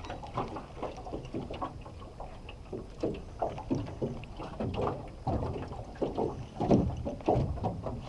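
Water lapping and slapping irregularly against the hull of a small rental boat.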